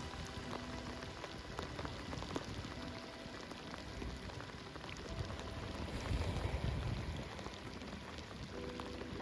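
Steady tropical rain falling, with many separate drops striking close by.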